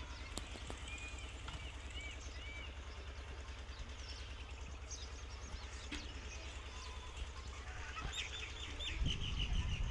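Birds calling in runs of short, quick chirps, with a louder run about eight seconds in, over a steady low rumble.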